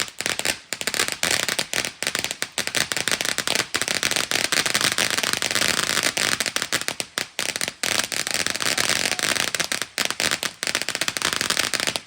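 Fireworks crackling: a dense, loud, continuous rattle of rapid small pops, which cuts off suddenly near the end.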